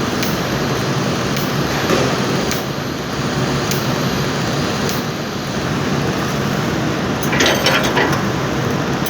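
Jeep Wrangler engine running steadily, with a brief louder burst of noise about seven and a half seconds in.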